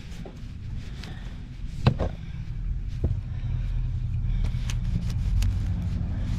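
Low rumble of a vehicle on the move, growing louder, with scattered light clicks and a sharper knock about two seconds in.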